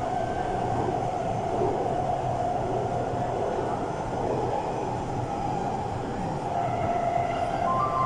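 Taipei Metro subway train running through the tunnel between stations, heard from inside the car: a steady rumble and hiss from the wheels and running gear. A few short high tones start right at the end.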